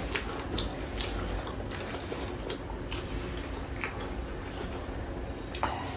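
Eating sounds of roast chicken being chewed: soft chewing and mouth smacks with scattered small clicks, over a low steady hum.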